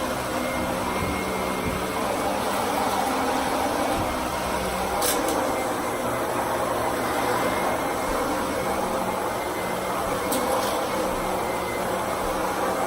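Vacuum cleaner running steadily: a constant motor and airflow noise with a faint high whine, and a couple of brief clicks.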